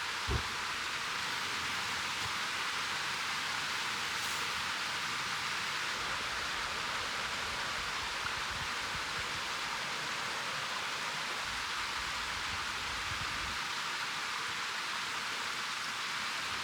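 Steady hiss of a mountain stream's flowing water, with one soft thump just after the start.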